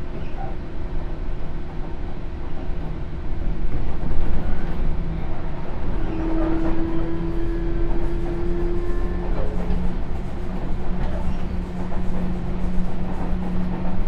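Sotetsu New 7000 series electric train running, heard from inside the car: steady wheel-on-rail rumble with steady electric tones from its Hitachi GTO-thyristor inverter drive. A higher tone comes in about six seconds in and fades about three seconds later.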